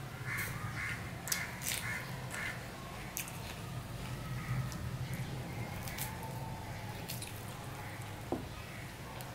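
Close-up eating sounds of a person chewing fried fish and rice with the mouth open, with wet smacking and many sharp clicks, over a low steady hum.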